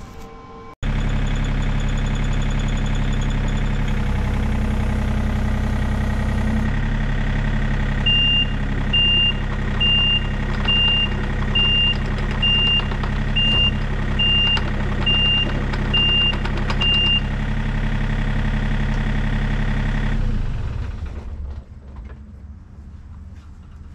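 John Deere 35D compact excavator's diesel engine running steadily, with its travel alarm beeping about eleven times, roughly once a second, partway through. Near the end the engine winds down and stops.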